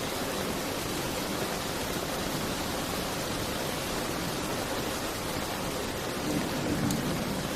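Steady rain as an even hiss, swelling slightly in its lower range near the end.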